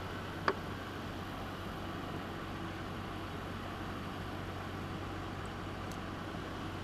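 Steady low hum and hiss of room noise, with a single light click about half a second in.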